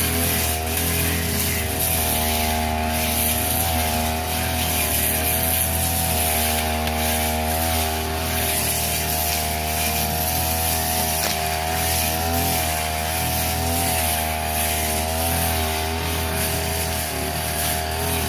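Petrol brush cutter engine running steadily while cutting grass, its pitch wavering slightly up and down.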